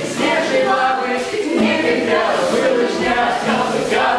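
Several voices singing together, like a small choir.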